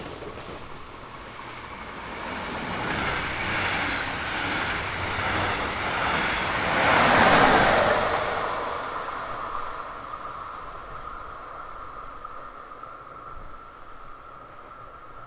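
A passenger train hauled by a DB class 112 electric locomotive passes at speed. Its rushing rail and wheel noise builds to a peak about seven seconds in, then fades as it recedes. A steady high tone lingers after it has gone by.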